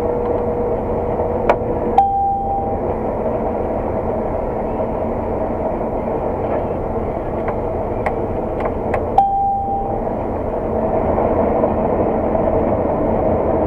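Claas 600 TT combine harvester running steadily at work, heard from inside the cab, with a few sharp clicks and two short beeps, about two seconds and nine seconds in.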